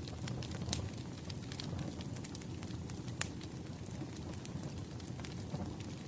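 Wood fire burning with a low rumble and irregular crackles and pops, one sharper pop about three seconds in.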